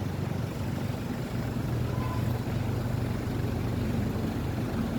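Street traffic with a steady low hum from a nearby motor vehicle's engine.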